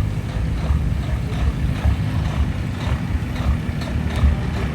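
Big-rig truck engines running, a low, steady rumble with faint ticks on top.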